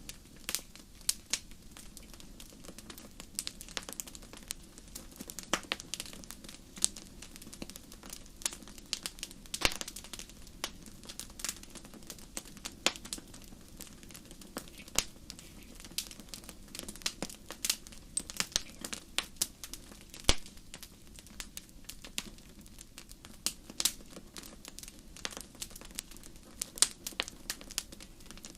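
Wood fire crackling: irregular sharp pops and snaps over a steady low rumble, with a couple of louder pops about ten and twenty seconds in.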